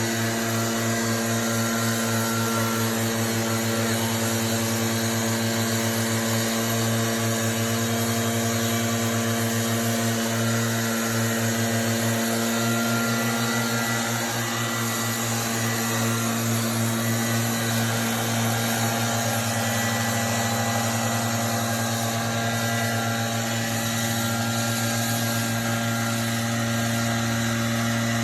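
A machine's motor running steadily at a constant pitch, a continuous hum with a faint pulsing in its lowest tone.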